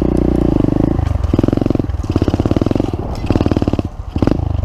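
Pit bike's small single-cylinder engine revving in repeated bursts, about a second apart, during a rolling burnout attempt; the revs drop off briefly near the end.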